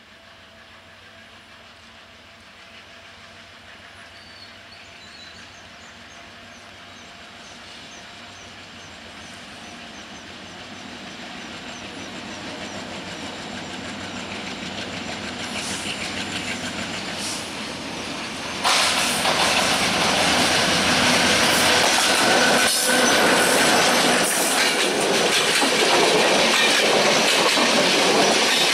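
Diesel-hauled broad-gauge express passenger train approaching, its sound growing steadily louder for about eighteen seconds. The locomotive reaches the microphone with a sudden jump in loudness, then the passenger coaches rush past close by, wheels clattering over the rail joints.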